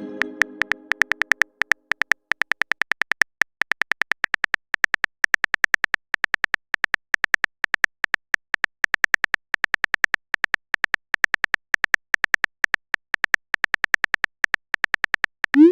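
Typing clicks from a texting-story app's on-screen keyboard: a quick, uneven run of taps, several a second, ending in a short rising swoosh as the message is sent.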